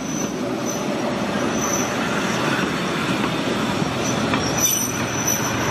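Corsican metre-gauge railcar rolling along the rails, a steady rumble of wheels and running gear, with a thin high-pitched wheel squeal that comes and goes several times.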